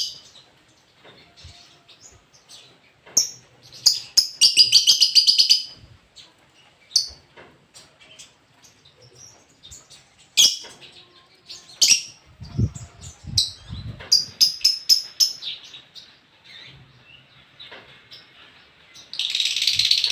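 Lovebird calling: sharp, high single chirps scattered through the clip, broken by fast chattering trills about 4 seconds in, near 14 seconds and again at the end. A few low thumps sound a little past the middle.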